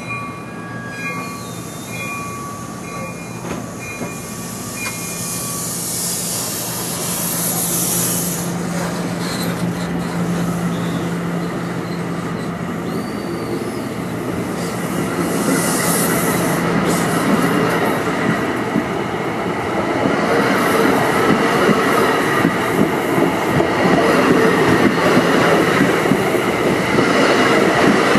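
NJ Transit Multilevel commuter train pulling out of the station. Repeated short electronic beeps sound for the first five seconds or so over a steady hum. Then the rolling noise of the cars builds as they pick up speed, with two spells of high wheel squeal.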